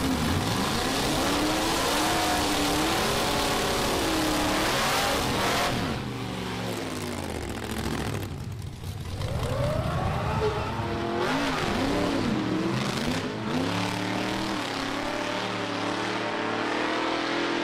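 Classic 1950s Chevrolet drag car's engine revving up and down again and again during a smoky burnout at the start line, with the rear tyres spinning. About six seconds in it eases off briefly, then revs hard again.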